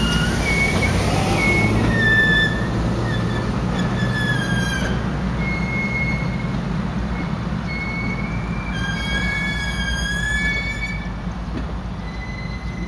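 Passenger train cars rolling past on a curve: a steady low rumble of the wheels on the rails, with repeated high-pitched wheel squeals, each held from half a second to a couple of seconds. The rumble fades slightly as the train moves away.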